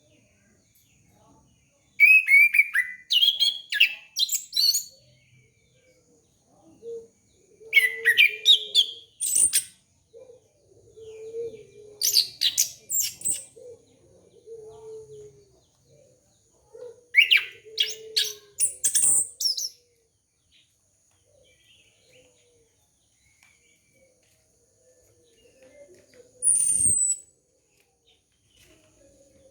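Orange-headed thrush (anis kembang) singing loud, rapid, high-pitched phrases in bursts of two to three seconds, separated by pauses: about four long bursts and a short call near the end.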